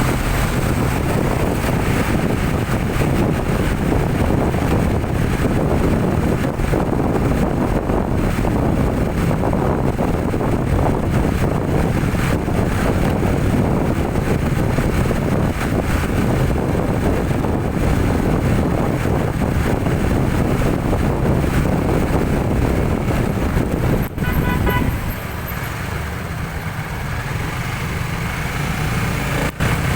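Steady engine and road noise from vehicles on the move, strongest in the low end, easing off somewhat about five seconds before the end.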